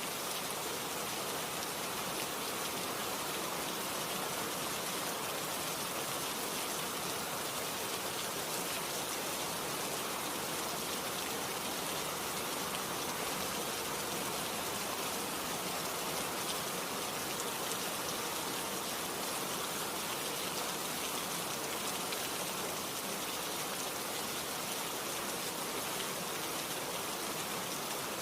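Steady, even rainfall with raindrops pattering on surfaces; no change in intensity.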